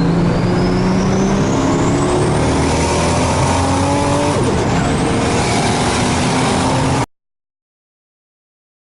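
Turbocharged Subaru engine accelerating hard, heard from inside the car. The revs climb, drop at a gear change about four and a half seconds in, then climb again, with a high rising whine above the engine note. The sound cuts off abruptly about seven seconds in, leaving silence.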